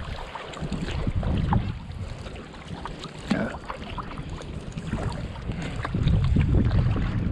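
Water splashing and slapping against a sea kayak's hull as it is paddled through wind-driven chop, in scattered small splashes. Wind buffets the microphone with a low rumble, strongest at the start and again from about six seconds in.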